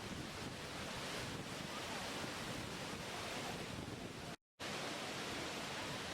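Steady rushing of water, an even noise with no rhythm, broken by a sudden drop to total silence for a fraction of a second about four and a half seconds in.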